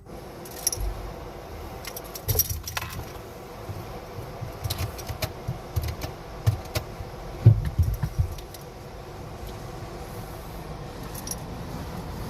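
Automatic car wash heard from inside the car: a steady rush of spray with scattered clattering knocks and low thuds against the bodywork, the heaviest thuds about two-thirds of the way through.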